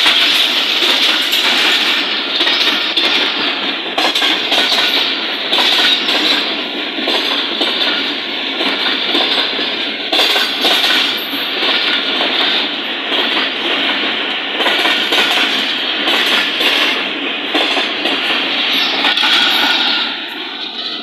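Passenger train coaches passing very close at speed: a loud, steady rumble and rattle of steel wheels and bogies on the rails, with occasional sharp clicks as the wheels cross rail joints. The noise drops off near the end.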